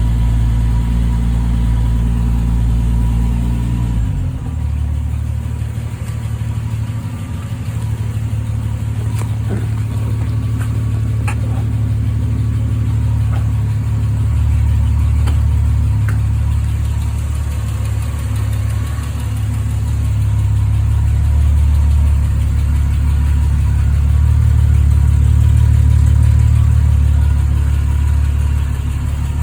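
Triumph TR6's 2.5-litre straight-six idling steadily while still warming up after a cold start. Its engine speed drops a step about four seconds in and then holds.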